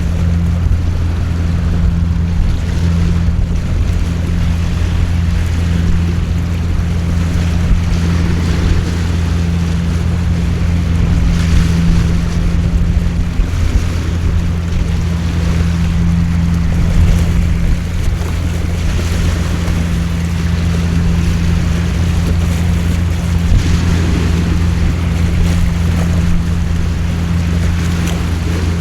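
Heavy rain falling steadily, with an unbroken low hum underneath that does not change.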